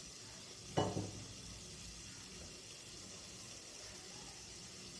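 Steady faint sizzle of chopped onions and capsicum frying on a high flame, with one short knock of a flat spatula against a steel bowl of paneer about a second in.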